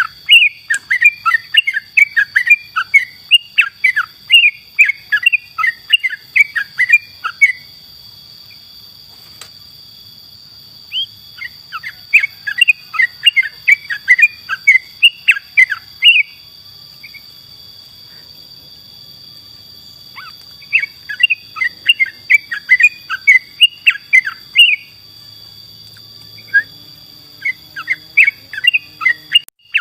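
Yellow-vented bulbul (trucukan) singing: rapid bubbly chirping phrases in four bursts, with pauses of a few seconds between them.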